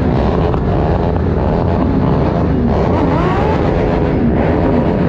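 Several motorcycle engines running at once, with one revving up about two and a half seconds in.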